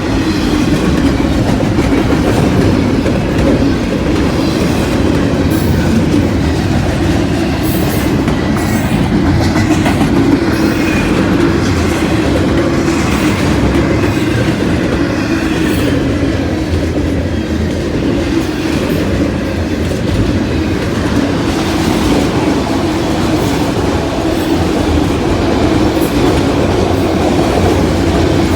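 CSX freight train of intermodal and auto rack cars rolling steadily past, its wheels clicking over the rail joints.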